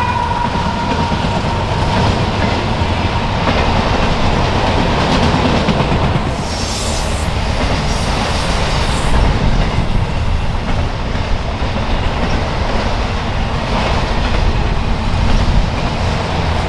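Freight train cars of a CSX autorack train rolling past, with a steady rumble and wheels clicking over rail joints. Brief high wheel squeals come a few times around the middle.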